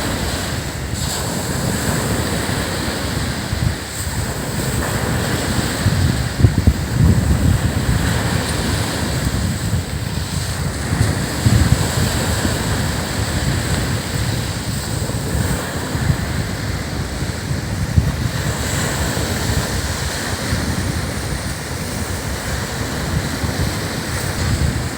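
Ocean surf breaking and washing up a sandy beach in a steady rush, with wind gusting on the microphone.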